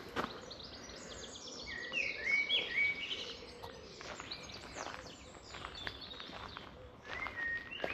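Songbirds singing together: a mix of quick trills and short whistled chirps, loudest about two to three seconds in.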